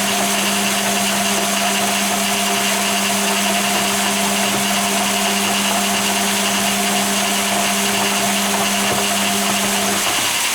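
Hoover Keymatic A3112 washing machine running in its first rinse: a steady motor hum over rushing water noise. The hum cuts out near the end.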